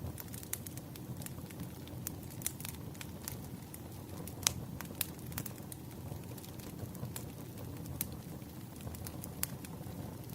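Wood campfire burning: a steady low rush of flames with frequent sharp crackles and pops from the burning logs, one louder pop about halfway through.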